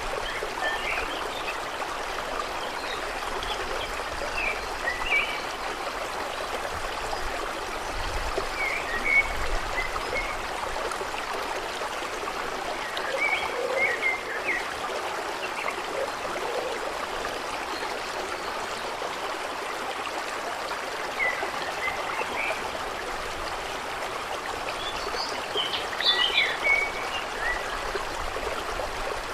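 Lakeside water trickling and flowing in a steady hiss, with short high chirps from small wildlife every few seconds, a busier flurry of them near the end.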